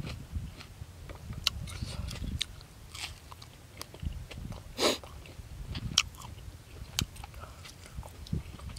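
Close-miked chewing and wet lip-smacking of a person eating boiled buffalo offal, with many sharp mouth clicks and one brief louder noise about five seconds in.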